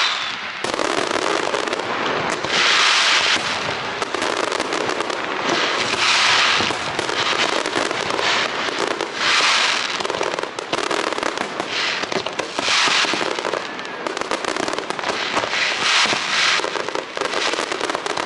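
Aerial fireworks display: continuous popping and crackling, with loud hissing crackle bursts about a second long coming roughly every three seconds.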